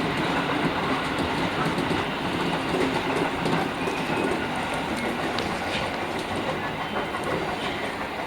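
JR Kyushu 415-1500 series electric multiple unit running on the rails, heard from inside the front car: a steady rumble with wheels clattering over rail joints.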